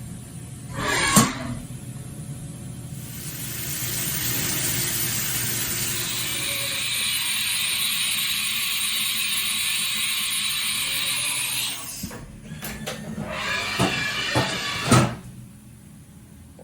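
Haas VF-4 CNC vertical machining center running: a sharp knock about a second in, then a steady hiss for about nine seconds, then a few clicks and a louder knock near the end.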